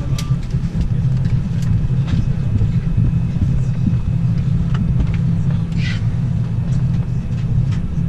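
Steady low drone inside an Airbus A319 cabin before departure, with a few faint clicks and rustles on top.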